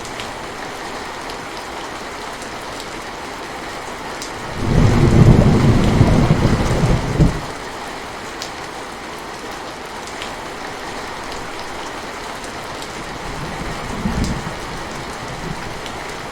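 Steady heavy rain falling, with a deep rumble of thunder about four seconds in that lasts nearly three seconds, and a shorter, fainter rumble near the end.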